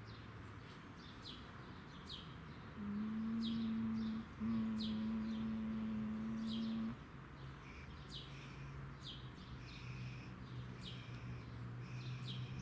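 Birds chirping repeatedly with short high calls. In the middle comes a steady low tone with rich overtones: one held note, a brief break, then a second held note of about two and a half seconds that cuts off abruptly and is the loudest sound.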